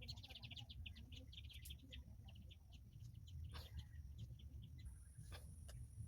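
Faint chirping of small birds: a quick run of short chirps in the first few seconds that thins out afterwards, over a low steady rumble.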